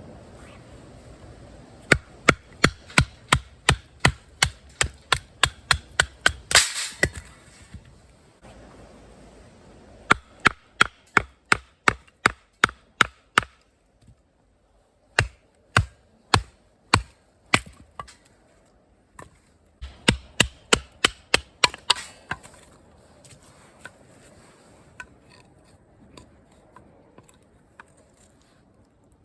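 Wood being chopped: runs of sharp strikes at about three a second, broken by short pauses, with a louder crack about six and a half seconds in and a few lighter taps near the end.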